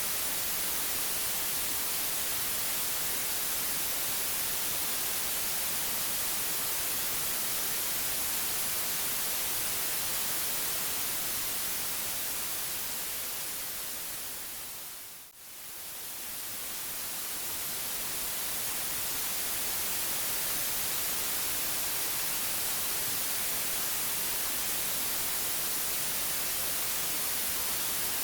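Steady white noise hiss, brightest in the high frequencies. About halfway through it fades down to a brief dip and swells back up over a few seconds.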